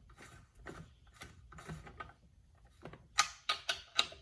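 Small mechanical clicks and rattles of chainsaw parts being handled, faint at first, then a quick run of about five sharper clicks near the end.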